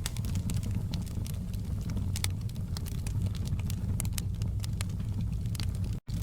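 Wood fire crackling, with frequent irregular sharp pops over a steady low rumble of burning. The sound cuts out for an instant near the end.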